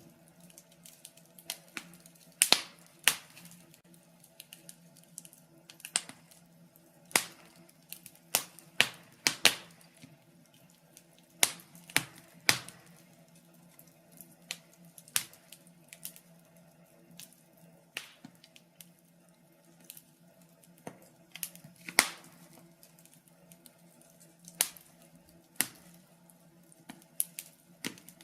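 Wood fire crackling: burning logs give sharp pops and snaps at irregular intervals, several loud ones and many faint ones, over a faint steady low hum.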